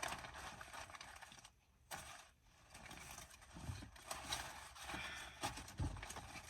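Paper money bills being handled for a cash count: soft, irregular rustling and crinkling that stops and starts.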